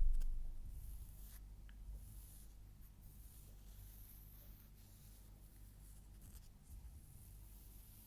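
Faint scratching and rustling close to the microphone in short soft bursts, with a few light clicks. A low thump fades away in the first second.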